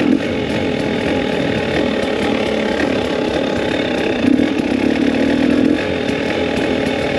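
Two-stroke KTM 300 EXC dirt bike engine running at low trail speed, ridden on the clutch, which the rider suspects is worn out. The revs pick up briefly about four seconds in, then ease off.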